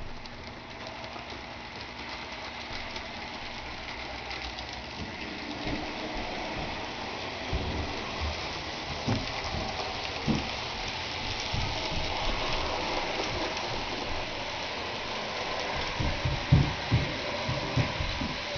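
Model train running along the layout's track, a steady rushing noise of wheels and motor that slowly grows louder, with scattered low knocks, clustered near the end.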